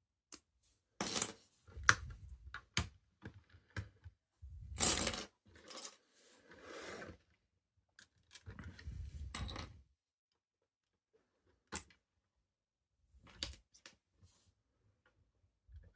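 Plastic Lego parts clicking and rattling as the built truck model is handled, in several bursts of clatter followed by a couple of single sharp clicks.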